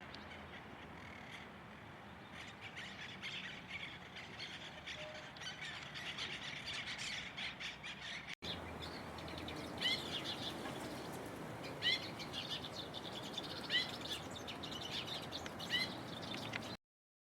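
Wild birds calling over a steady hiss: first a busy mix of chirps. Then, after a break, one loud short rising call repeated about every two seconds. The sound stops abruptly near the end.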